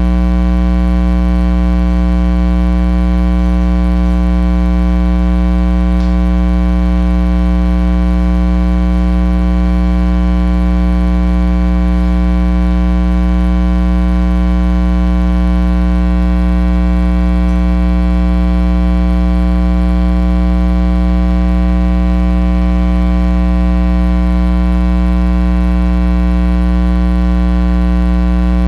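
Loud, steady electrical mains hum with a long stack of overtones, unchanging throughout.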